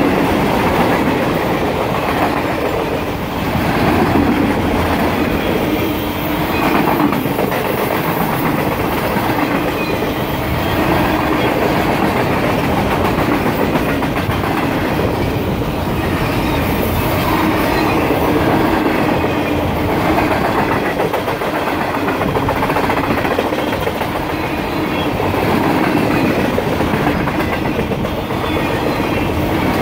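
Loaded freight flatcars rolling past: a steady, loud rumble and clatter of steel wheels on the rails.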